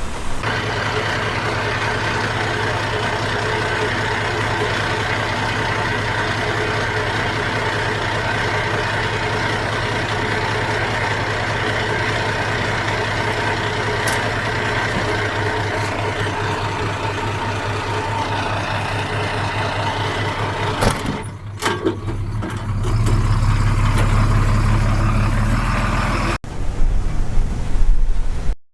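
Heavy diesel engine of earthmoving machinery running steadily, with a deeper, louder hum from about three-quarters of the way in, cut off abruptly near the end.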